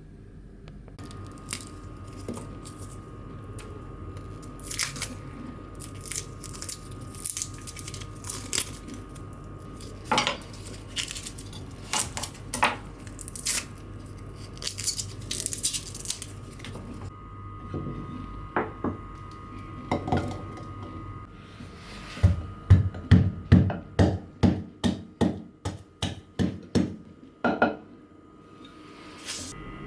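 Kitchen work sounds: dishes and utensils clinking and knocking, irregularly at first, then a run of quick, even knocks, about three a second, for several seconds near the end.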